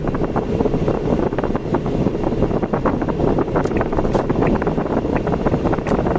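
Steady road and driving noise from a moving vehicle, with wind buffeting the microphone in short, irregular crackles.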